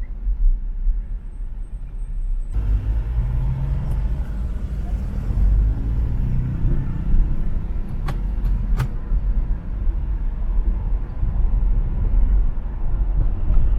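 Car driving on an expressway: steady low rumble of engine and tyre noise amid traffic, which grows fuller about two and a half seconds in. Two short sharp clicks come a little over half a second apart near the middle.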